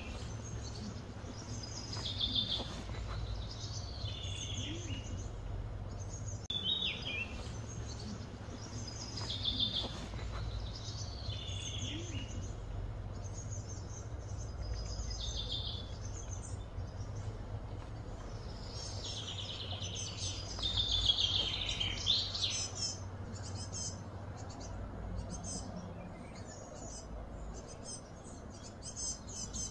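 Birds calling: short chirping phrases repeated every couple of seconds, with a denser run of chirps about twenty seconds in, over a steady low hum.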